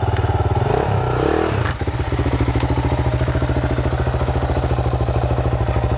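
Dirt bike engine running, with a brief rising rev about a second in and a sharp knock just after, then settling into an even, pulsing idle.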